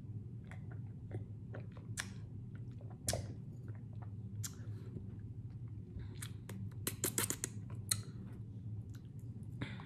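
Close-up mouth sounds of a person eating rotisserie chicken: soft wet smacks and clicks of chewing, scattered, with a quick cluster of smacks about seven seconds in.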